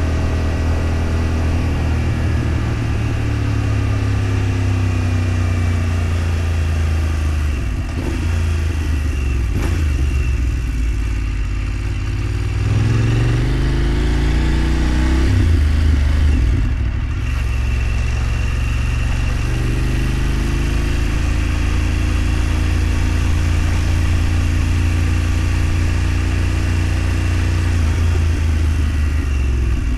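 A vehicle engine running on the move, with a steady low drone; a little under halfway through it speeds up with a rising pitch, then drops back to steady cruising.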